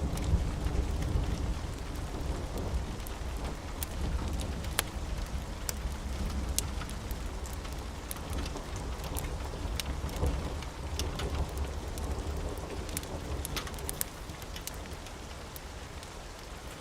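Steady rain with a low rumble of thunder that dies away over the first dozen seconds. Scattered sharp crackles from a wood fire run over it.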